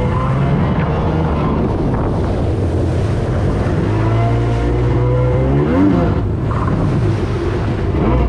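Stand-up jet ski engine running hard under throttle. It revs up sharply about two-thirds of the way through, then drops back.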